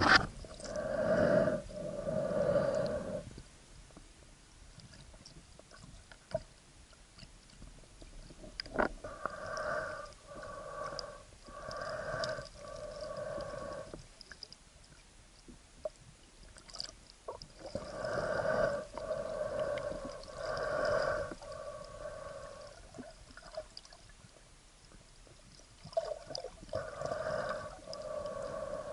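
Underwater sound recorded through an action camera's waterproof housing: hollow, muffled pulses of water moving against the camera, about two a second, in spells of a few seconds with quieter stretches between.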